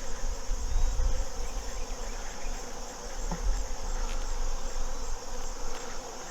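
Honeybees buzzing around an opened hive, a steady drone over a low rumble.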